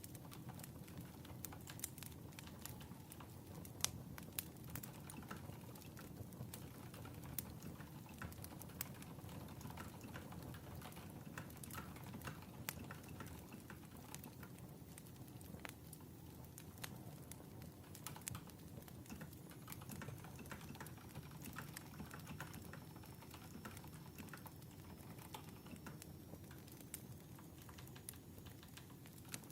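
Faint crackling wood fire: irregular sharp snaps and pops over a low, steady rumble.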